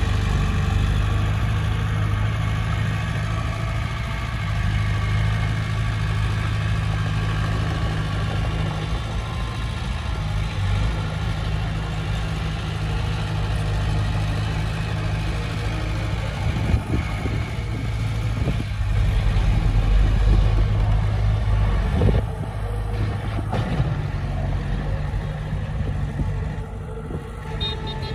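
Heavy diesel engine of earthmoving machinery running steadily under load, its low hum swelling about two-thirds of the way through. A few sharp knocks, like metal clanks, come in the second half.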